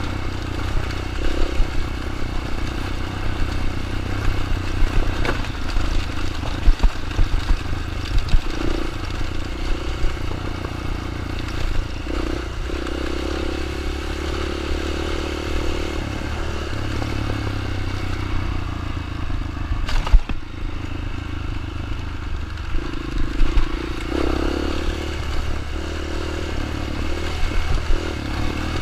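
Small dirt bike engine running, its pitch rising and falling as the throttle changes, with a sharp knock about twenty seconds in.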